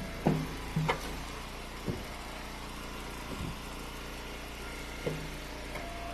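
A log splitter's engine running steadily while split ash firewood knocks and clatters: a quick cluster of sharp wooden knocks in the first second, then single knocks every second or two.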